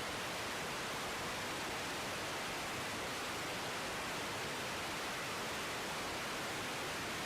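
Steady radio static hiss on an air traffic control frequency between transmissions, even and unchanging.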